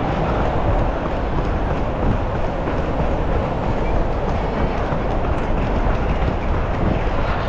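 Strong wind buffeting the microphone: a loud, steady rumble with no breaks.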